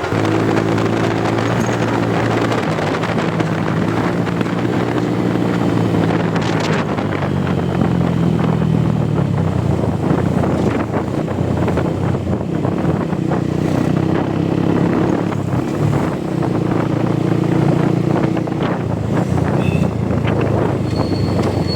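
Motorcycle engine running steadily under way, its pitch holding with small shifts, with wind buffeting the microphone.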